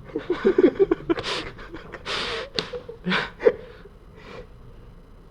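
A person laughing briefly, then breathing out in several short, breathy huffs and gasps.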